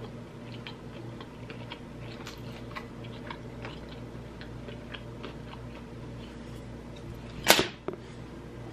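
Close-up mouth sounds of chewing sushi: soft wet clicks and smacks. About seven and a half seconds in comes one loud, sudden burst of breath, a reaction to the burn of too much wasabi.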